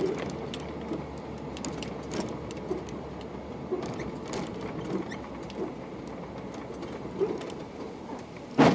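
A vehicle's steady road and running noise with small rattles and clicks scattered through it, and one loud thump near the end.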